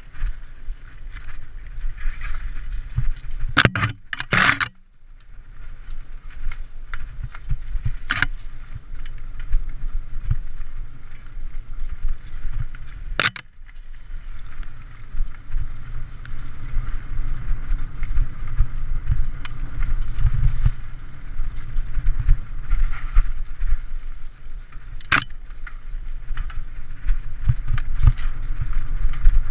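Mountain bike ridden over a rough singletrack: steady wind rumble on the microphone with the bike rattling over the bumps and a handful of sharp knocks.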